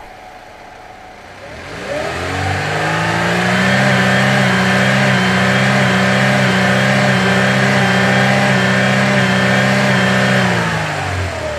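A vehicle engine speeds up about two seconds in, runs steadily at a raised pitch, then slows and dies away near the end.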